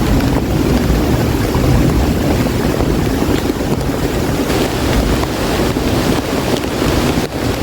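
Steady heavy rain, with wind buffeting the microphone.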